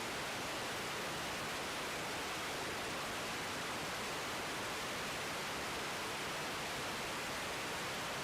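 Steady, even static hiss of an air traffic control radio feed between transmissions.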